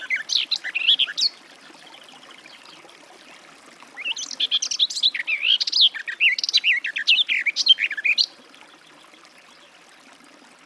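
Garden warbler singing. A warbling phrase ends about a second in, and after a pause of a few seconds a longer run of fast, varied warbling follows for about four seconds.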